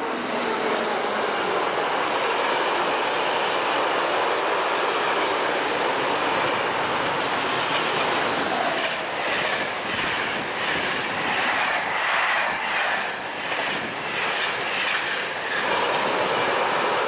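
A train passing close by at speed, its wagons rolling past with a loud, steady rush. Partway through comes a rhythmic clickety-clack of wheels over rail joints, about two clatters a second.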